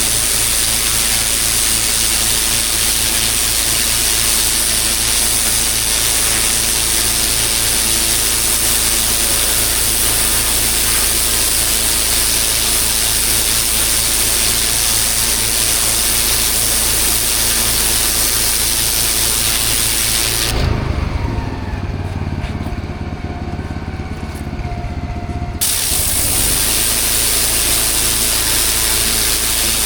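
Pressure washer jetting water onto block paving, a steady hiss over the engine-driven pump's hum. About 21 seconds in the spray stops for roughly five seconds, leaving the engine running on its own, then it starts again.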